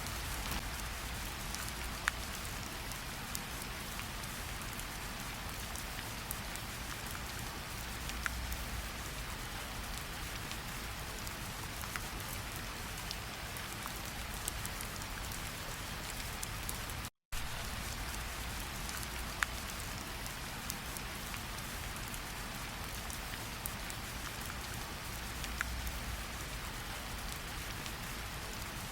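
Steady rainfall: a continuous hiss of rain with scattered sharper taps of single drops. The sound cuts out completely for a split second about halfway through.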